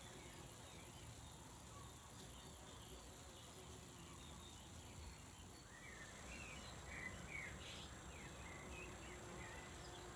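Faint outdoor garden ambience. From about six seconds in, a run of short, high bird chirps.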